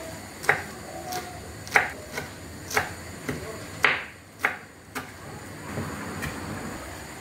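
A series of sharp knocks or taps, roughly two a second and unevenly spaced, loudest in the first five seconds and fainter after.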